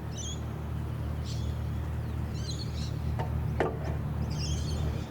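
Small birds chirping, four short calls spread across a few seconds, over a steady low hum. A sharp knock sounds about three and a half seconds in.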